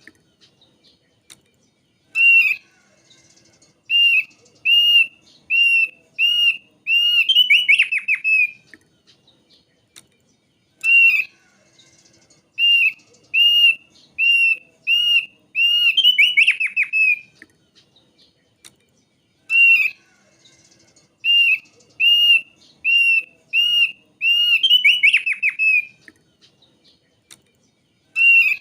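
Thick-billed white-eye singing: a run of clear, arched whistle notes, a little under one a second, each run ending in a quick falling trill. The song phrase repeats three times with short pauses between.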